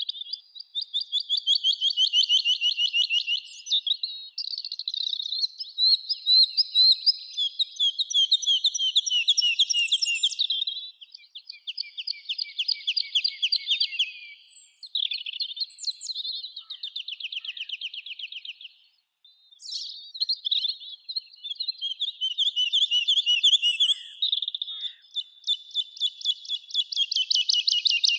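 Songbird singing long, varied phrases of rapid trilled notes, one after another with brief pauses between them.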